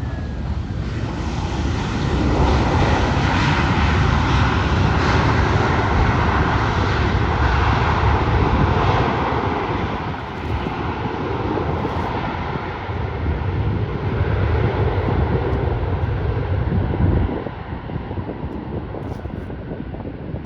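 Large airliner passing close by on its landing approach, its engines a loud steady roar that builds over the first couple of seconds, holds, and eases off near the end.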